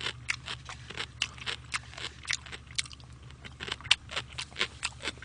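Close-miked chewing of jjajangmyeon and fried dumplings: a steady run of quick wet mouth clicks and small crunches, three or four a second, over a low steady hum.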